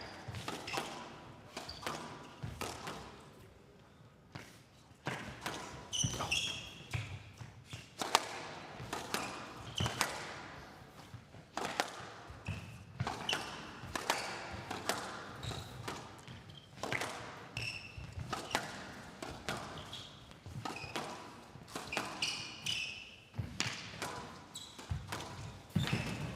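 A long squash rally: the ball cracking off rackets and the court walls in sharp, irregular knocks about every second, with short high squeaks in between.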